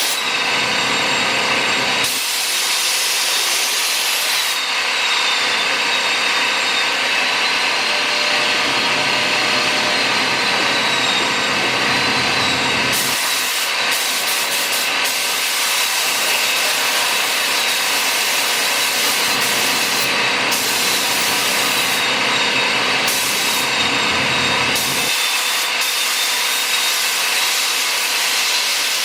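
Compressed-air paint spray gun hissing through long passes, cutting in and out several times as the trigger is pulled and released, over a faint wavering high whistle.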